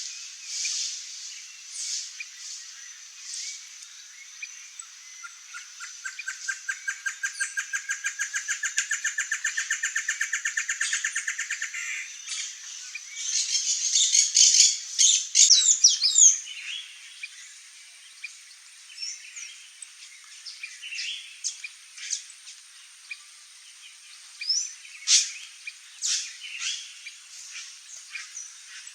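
Great antshrike singing: a long series of hooting notes that speeds up over about six seconds and ends in a louder harsh rattle. Short chirps from other birds come and go over a thin steady high-pitched whine.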